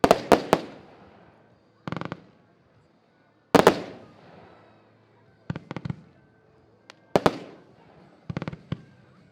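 Xplode No Fear 36-shot consumer firework battery firing: shells breaking in sharp bangs every second or two, some single with an echoing tail, others in quick clusters of three to five cracks.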